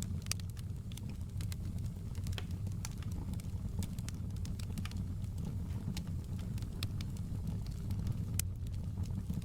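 Wood fire crackling: scattered sharp pops and ticks, irregular and several a second, over a steady low rumble.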